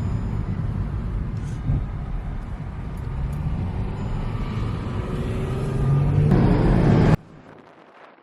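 Motorcycle ride noise: engine and road rumble with a slight rise in pitch midway. It swells louder near the end and then cuts off suddenly about seven seconds in.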